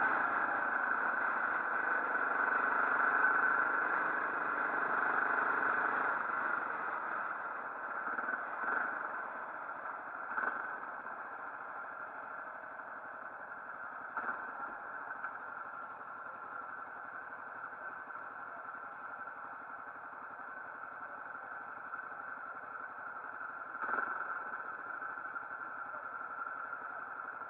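Motorcycle engine running steadily, louder for the first few seconds and then settling to an even idle-like hum, with a few brief knocks.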